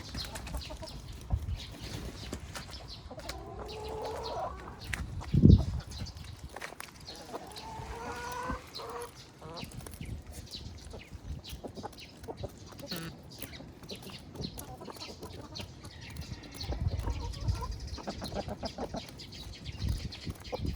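Hens clucking, with a couple of longer drawn-out calls, and one loud low thump about five and a half seconds in.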